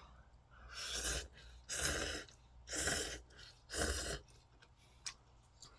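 Four short, breathy bursts of air at the mouth, about a second apart, from a person eating instant ramen noodles.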